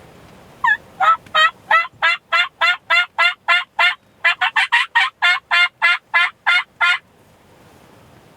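Turkey call worked by a hunter, sounding a long series of loud hen yelps at about three a second. There is a short pause about four seconds in and a quicker run of notes after it, and the calling stops near the end. This is calling meant to strike distant gobblers.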